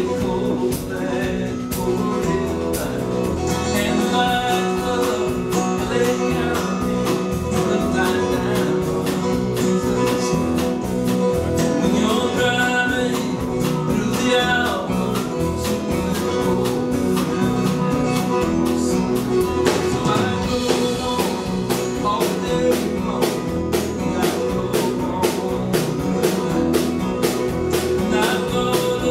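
Live country band music led by guitars, with a steady beat.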